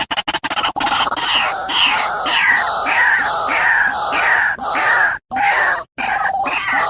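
A bird giving harsh, screeching calls in quick succession, each one dropping in pitch, with two abrupt breaks near the end.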